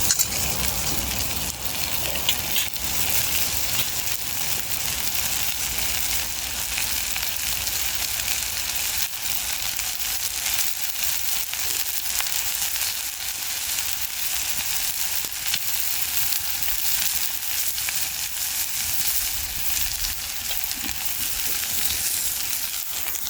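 Steak and potatoes frying in a crowded pan over a campfire: a steady sizzle with many small crackles and pops.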